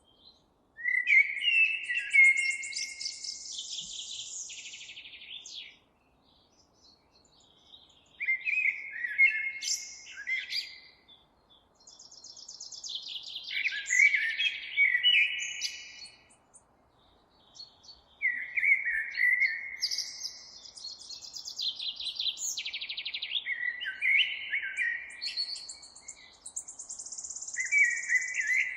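A songbird singing long, varied phrases: lower whistled notes followed by rapid trills and buzzy runs climbing high in pitch. There are about five phrases, each a few seconds long, with short pauses between them.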